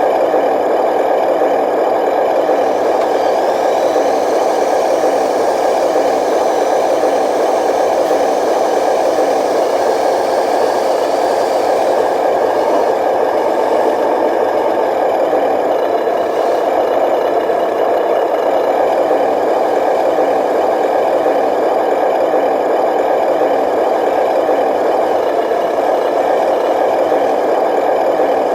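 Radio-controlled dump truck running with a steady, unchanging engine-like drone. A faint high whine rises and falls between about three and twelve seconds in.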